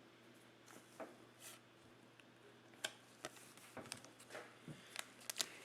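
Faint handling of trading cards: a few soft clicks and short rubbing sounds as cards are shuffled and set down, over a low steady hum.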